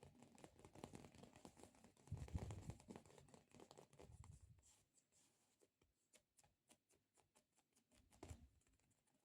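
Sticky stress-relief squishy toy being pressed and peeled, with soft thumps and a fast run of fine crackling ticks as its tacky surface pulls away.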